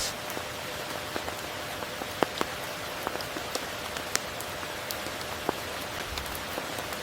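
Steady rainfall hissing, with individual drops ticking sharply on top; a few louder drops land about two and four seconds in.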